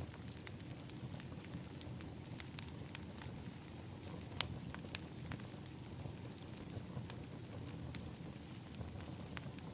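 Wood fire crackling: irregular sharp pops and snaps over a steady low rumble of burning flames, with one louder pop a little before halfway.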